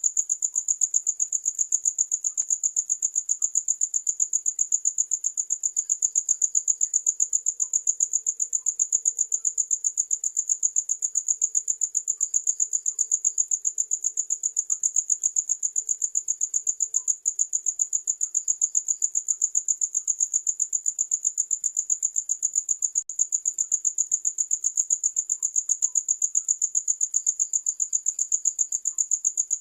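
Cricket chirping without pause: one high, steady pitch, pulsed in a fast, even rhythm.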